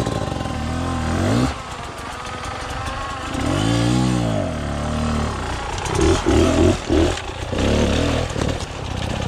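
KTM 250 EXC-F dirt bike's single-cylinder four-stroke engine under way, revving up and back down about four seconds in, then blipping the throttle several times in quick succession near the end.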